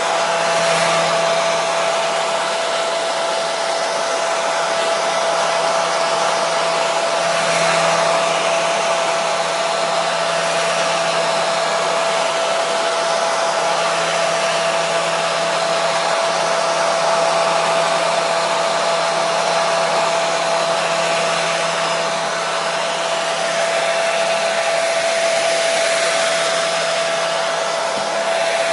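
Hair dryer running steadily: a continuous airy rush with a constant motor hum.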